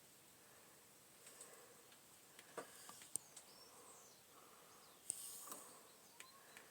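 Near silence with a few faint small clicks and a brief scratchy rub about five seconds in: a cotton bud being worked around inside a gunked-up hole in a Mamod toy steam engine part.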